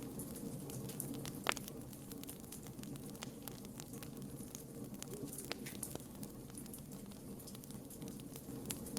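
Wood campfire burning, a steady low rush of flames with scattered irregular crackles and pops, one sharper pop about a second and a half in.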